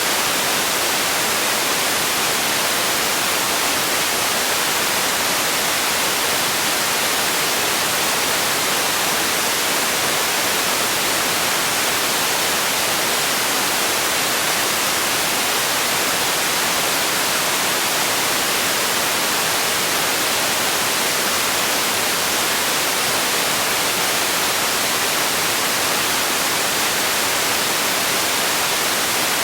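Steady white noise: an even, unbroken hiss, bright in the highs with little low end, played for relaxation and sleep.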